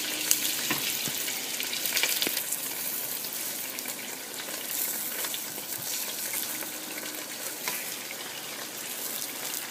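Oil sizzling steadily under a corn tortilla warming on an oiled hot plate, with a few small pops.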